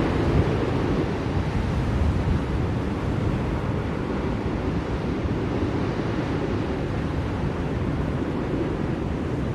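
Blizzard wind blowing steadily: a low, even rushing noise.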